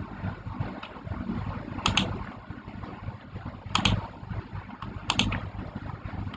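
Keys or buttons being pressed, giving sharp clicks mostly in quick pairs every second or two, over a steady low rumble.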